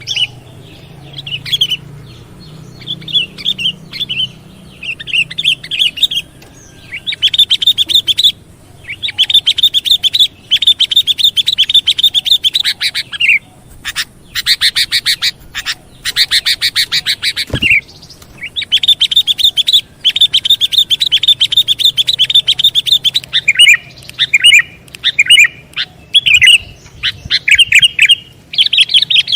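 Sooty-headed bulbul (kutilang) calling loudly in long bursts of rapid, high chattering notes, with sharper falling notes toward the end. A single short thump comes about halfway through.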